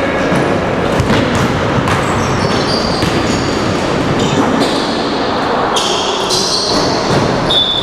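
Sounds of an indoor court game: a ball bouncing and sneakers squeaking on the hall floor in short high squeals, over a steady, echoing hall din.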